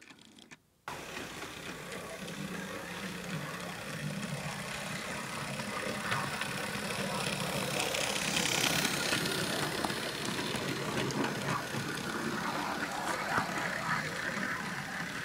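Hornby 00 gauge Thomas the Tank Engine model locomotive running on track: a steady electric-motor hum and wheel rattle that starts abruptly about a second in. It grows louder to a peak about halfway through, then eases slightly.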